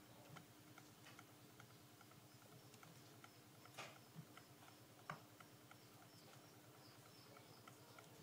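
Near silence: faint room tone with a steady low hum, a fine ticking, and a few faint clicks near the middle.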